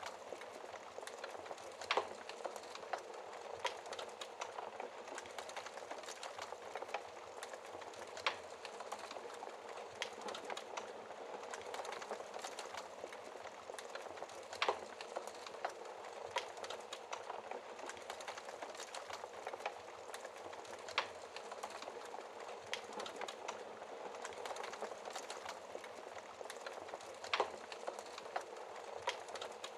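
Wood fire crackling in a fireplace: a steady hiss with constant small pops and an occasional louder snap every few seconds.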